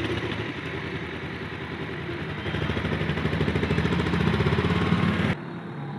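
Bajaj Pulsar 220F motorcycle's single-cylinder engine running with an even pulsing beat, growing steadily louder. It drops abruptly to a quieter, duller running sound about five seconds in.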